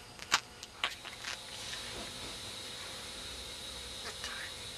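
Budgerigar making a few sharp clicks in the first second and a half between bouts of talking, then a steady faint hiss with only a couple of small ticks.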